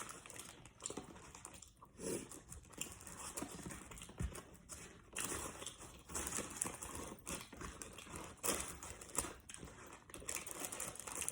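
A person chewing crispy fried chicken up close: irregular crunches and wet mouth clicks, with a little paper wrapper crinkling.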